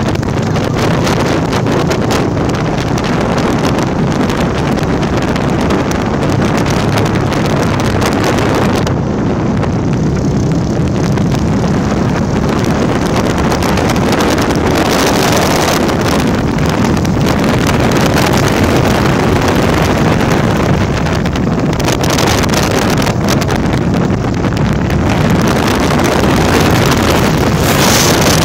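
Honda Tornado motorcycle with a 299cc single-cylinder engine running steadily at road speed, with heavy wind noise rushing over the microphone.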